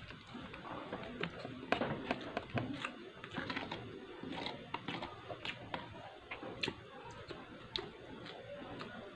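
Eating sounds: a person chewing food with many irregular short, sharp clicks.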